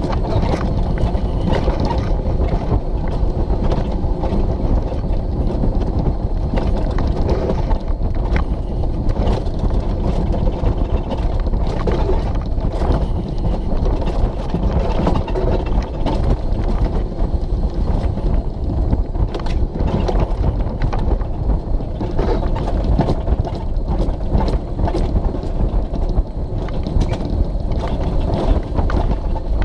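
Alpine coaster sled rolling down its stainless steel tube track: a steady rumble of the wheels with many small clicks and rattles, and wind on the microphone.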